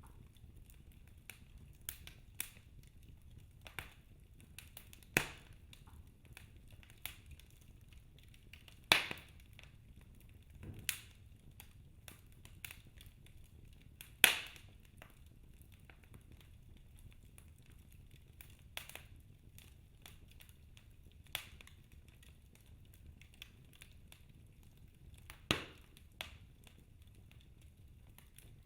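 Wood fire crackling in a fireplace: scattered sharp pops and snaps at irregular intervals, about five of them much louder than the rest, over a faint low rumble.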